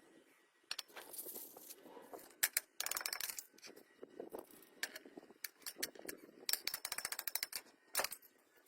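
Workshop hand-tool noise: bursts of rapid, evenly spaced mechanical clicking, like a ratchet being worked, with a few sharp metallic knocks between them.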